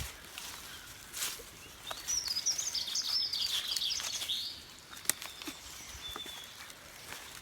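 A songbird singing a rapid, twittering run of high chirps for about two seconds, starting about two seconds in, with a few sharp clicks and rustles around it.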